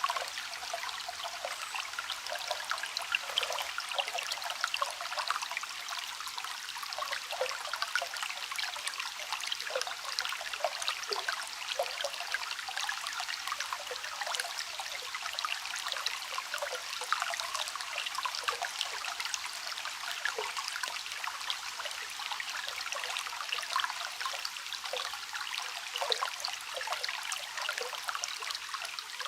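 A small stream trickling and babbling steadily: an even rush of running water, light and without deep rumble, dotted with many small irregular splashes.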